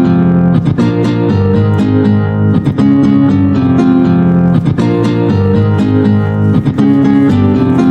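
Music: acoustic guitar strummed in a steady rhythm.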